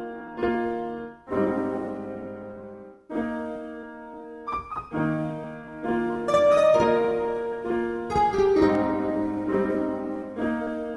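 Karaoke backing track playing its piano intro before the vocal: sustained chords struck every second or two.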